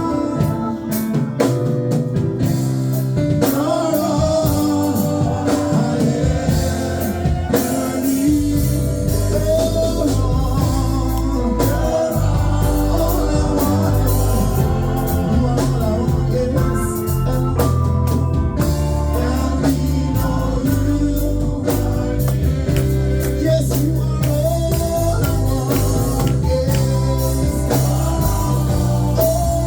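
Gospel worship music with singing and organ; a full bass and drums come in about eight seconds in.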